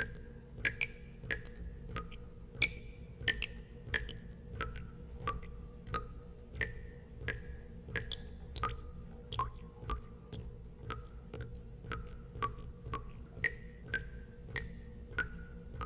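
Water dripping in a steady, slightly irregular run of drops, about one and a half a second. Each drop is a sharp click with a brief ringing tone whose pitch changes from drop to drop, over a low steady hum.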